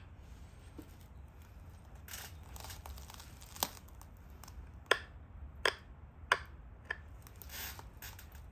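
Pressure flaking a stone Dalton point: five sharp clicks, one after another in the second half, as flakes pop off the edge, with soft scraping between them.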